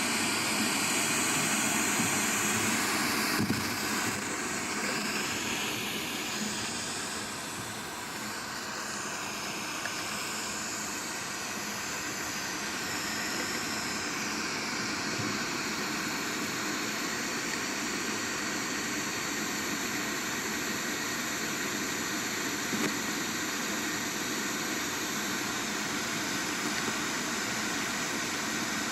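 Steady rushing, engine-like noise picked up by a microphone down an 18 m borehole and played through a small speaker, with a faint steady hum underneath and a little more hiss in the first few seconds. The group takes it for sound from an underground tunnel; the defence ministry calls it wind noise.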